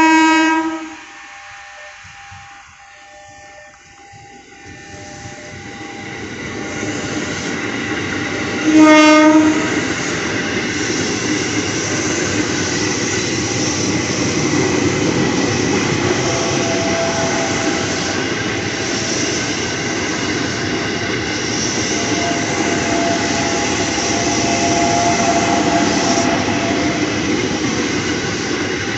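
A train at a level crossing sounds a short horn blast, approaches, and blasts its horn again about nine seconds in. It then passes with a steady rumble and rail noise that lasts to the end.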